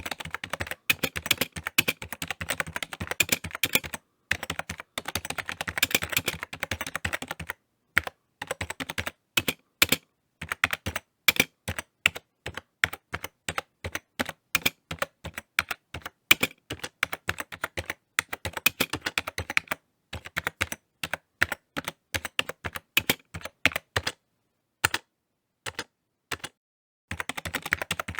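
Typing on a computer keyboard: rapid runs of key clicks in bursts, broken by short pauses and a longer pause of about three seconds near the end.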